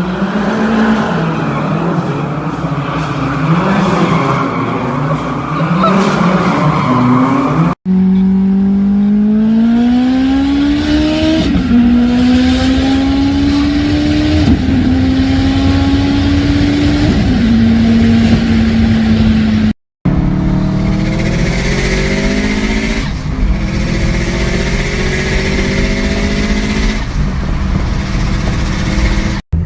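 Turbocharged performance car engines at hard throttle, in three short clips separated by brief gaps. First the revs rise and fall in quick blips. Then an engine accelerates up through the gears, its pitch climbing and dropping at each of three shifts, and a last clip ends with another car pulling hard through a shift.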